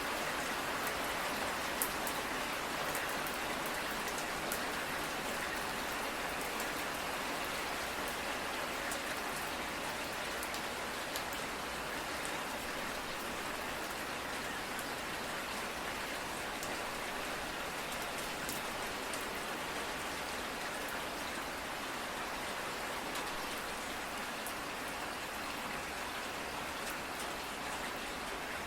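Steady rain falling, a dense even hiss with scattered sharper drops ticking on a surface.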